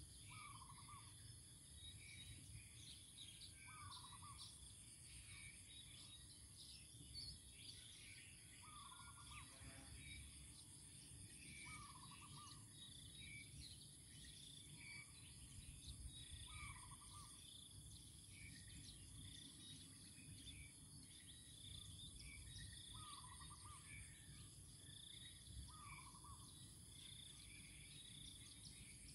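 Faint outdoor ambience: a bird repeats a short, falling call every few seconds over a steady high-pitched insect drone and scattered small chirps.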